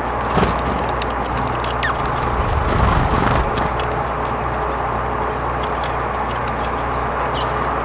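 A few short, high, downward-sweeping chirps from small birds over a steady outdoor background hiss, with scattered light clicks and taps and a brief low rumble about midway.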